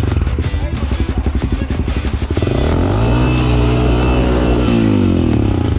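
Enduro dirt bike engine revving up and dropping back twice, chugging with fast even firing pulses at low revs in between.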